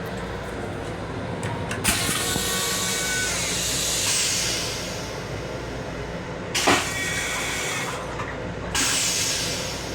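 Three sudden bursts of rushing hiss, the first about three seconds long and the second starting with a sharp click, over the steady rumble of a moving LIRR M7 railcar heard from inside its restroom.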